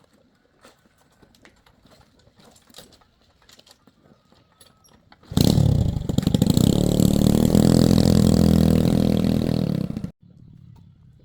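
Faint light clicks and taps, then about five seconds in a loud engine starts running suddenly, with a brief fall in pitch at the start, runs steadily for about five seconds and cuts off abruptly.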